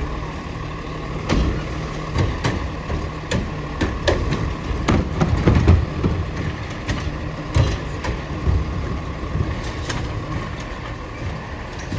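Autocar ACX garbage truck running, a steady engine hum broken by a string of knocks and clanks.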